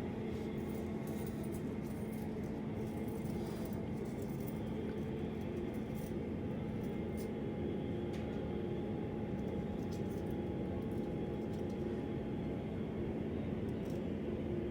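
Embraer 145 regional jet engine starting up, heard faintly from inside the terminal as a steady hum with a higher whine that comes in about six seconds in and fades near the end, with light ticks.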